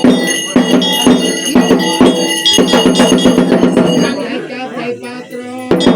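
Devotional ritual music: bells ringing over regular percussion strokes about twice a second, with voices. It thins out and drops in level about four seconds in.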